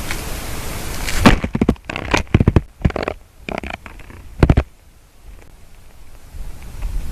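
A steady hiss of noise that cuts out about a second in, followed by a run of irregular close knocks, cracks and scrapes on wood over the next few seconds, then a quieter stretch before the hiss returns near the end.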